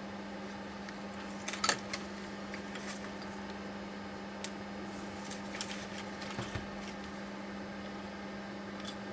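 Scattered light clicks and knocks of tools and parts being handled during a steering rack disassembly, over a steady low hum. The loudest knock comes a little under two seconds in.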